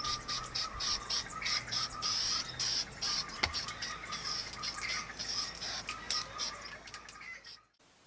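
Small birds chirping rapidly and repeatedly, cutting off suddenly near the end.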